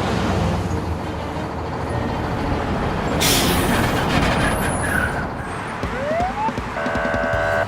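Truck engine rumbling, with a hiss about three seconds in. Near the end come rising siren-like whoops and a steady horn-like chord.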